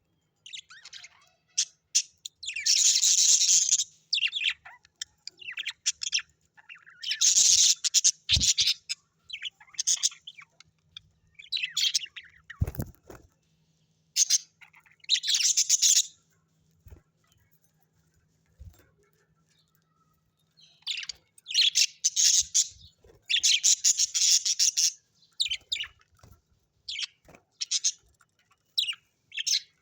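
Small pet parrots chirping and chattering in harsh, scratchy bursts with short pauses between, and a few brief low knocks.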